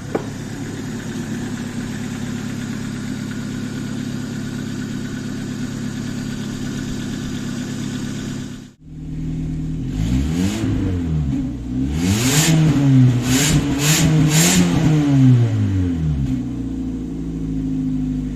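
Hyundai Accent petrol engine idling steadily, then, after a brief break, revved up and down several times, its pitch rising and falling, before settling back to idle. The seller calls the engine in excellent running order.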